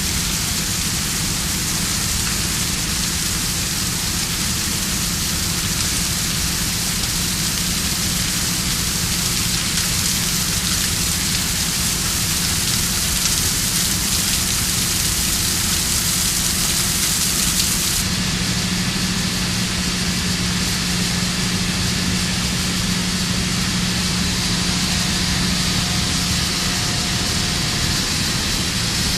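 Steady hissing noise with a low hum underneath. About 18 seconds in the tone shifts: the high hiss eases and the hum grows stronger.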